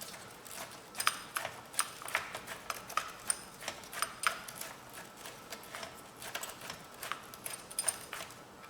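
Irregular small metallic clicks and taps, two or three a second, of an Allen key being worked in a bolt head to loosen it.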